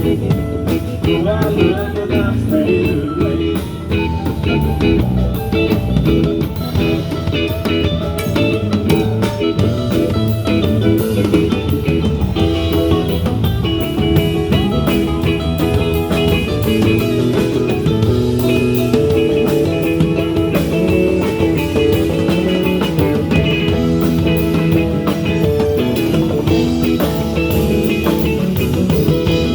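A band playing a blues-rock number: guitar over a drum kit, steady and loud throughout.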